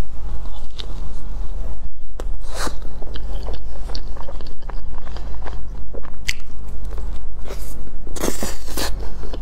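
Close-up eating sounds: biting into and chewing a soft matcha crepe roll filled with cream, with many short wet mouth clicks, and a longer burst of noisy chewing near the end, over a steady low hum.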